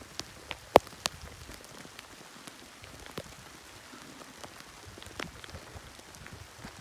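Pea-sized hail falling, a steady hiss with scattered sharp ticks of hailstones striking close by, several a second. The loudest tick comes about a second in.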